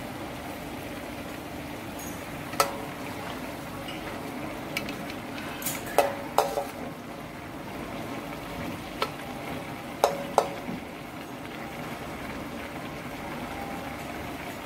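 Chicken livers bubbling and sizzling in sauce in a steel wok, stirred with a metal spatula that clinks sharply against the pan several times, loudest around six and ten seconds in.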